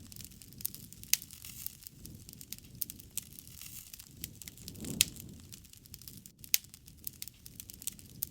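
Wood campfire crackling, with sharp pops at irregular intervals over a soft low rush that swells about five seconds in.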